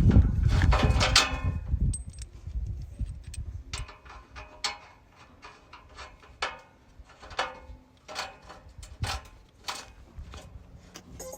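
A dozen or so irregular sharp clicks and clinks, typical of metal racking hardware being handled and fitted on a solar ground mount, after a loud rumbling noise in the first two seconds.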